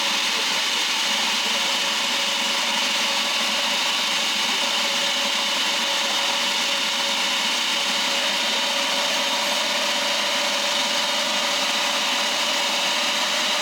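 A small motorised machine running steadily: a constant whirring noise with one steady hum underneath, unchanging throughout.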